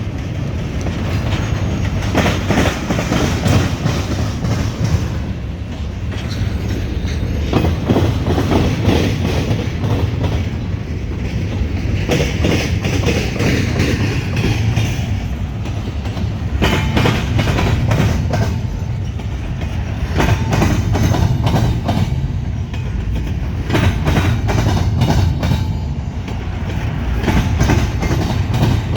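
CSX double-stack container train rolling past, a steady heavy rumble with the wheels clacking repeatedly over the track.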